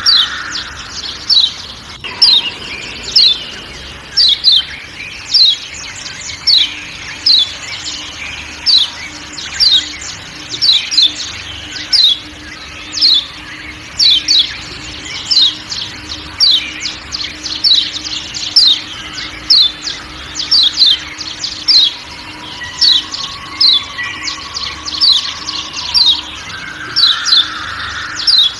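Kecial kuning (Lombok yellow white-eye) giving repeated 'ciak ciak' calls: short, high notes that each fall in pitch, a couple a second, over a background of forest sounds.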